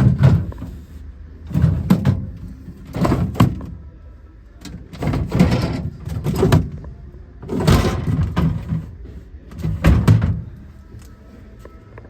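American-style fridge freezer doors and drawers being opened and shut: a series of about eight separate thuds and knocks, spread out every second or two.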